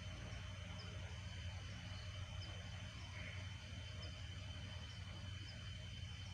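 Night insects: a steady high trill with short faint chirps repeating a little more than once a second, over a low steady rumble.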